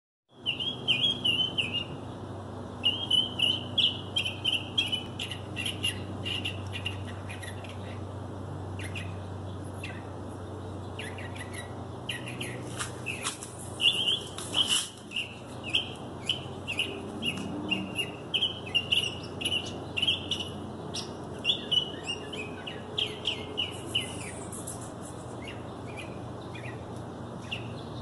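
A songbird singing a long, varied song of quick chirps and short trills, phrase after phrase with brief pauses, over a steady low hum.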